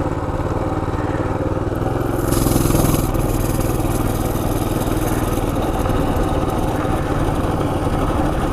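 Coleman CT200U mini bike's small single-cylinder engine running steadily while riding, swelling briefly about two and a half seconds in. A steady hiss joins at about the same time.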